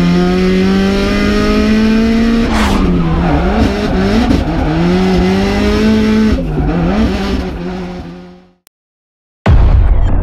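Drift car engine at high revs, held steady and then swinging up and down as the throttle is worked, over a noisy hiss. It fades out, and after about a second of silence loud electronic music with heavy bass starts near the end.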